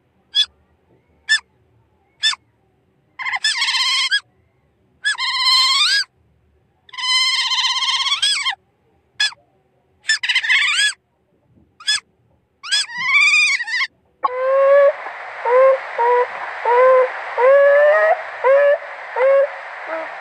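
Otter calls: a few short high chirps, then a series of wavering, high-pitched squeals of about a second each. About two-thirds in, a separate stretch begins over a steady hiss, with short rising squeaks about one and a half times a second.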